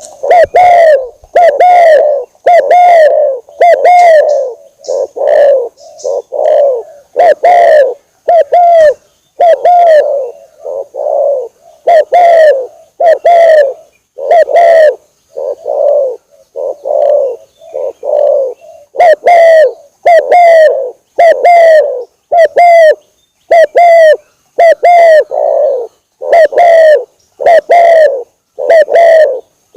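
Spotted dove (tekukur) cooing: a rapid, continuous series of short, loud coos, each dipping slightly in pitch, about two a second with brief pauses between phrases.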